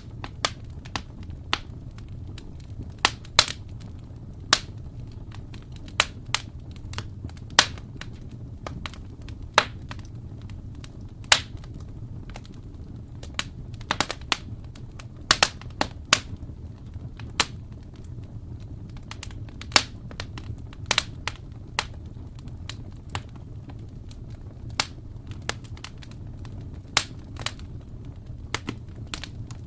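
Wood fire burning in a fireplace: irregular sharp crackles and pops, sometimes clustered, over a low steady rumble of the flames.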